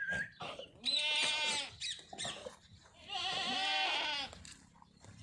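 Sirohi goat bleating twice, each call about a second long with a wavering, trembling pitch.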